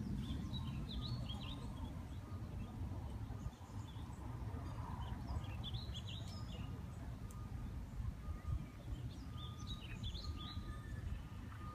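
A songbird chirping in three short phrases of quick high notes, a few seconds apart, over a steady low rumble.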